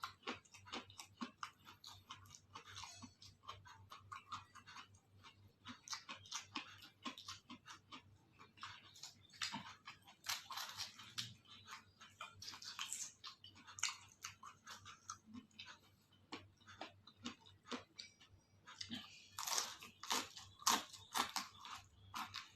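Close-miked chewing of crunchy food: a steady run of small crisp crunches, with louder bouts of crunching about ten seconds in and again near the end.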